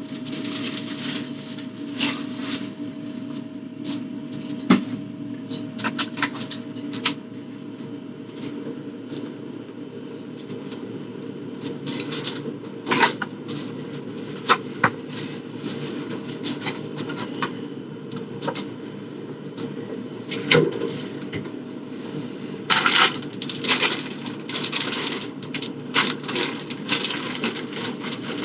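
Scattered clicks, knocks and rustling of food containers and packaging being handled while a refrigerator is cleaned out, with a busier burst of rustling and clatter near the end, over a steady low hum.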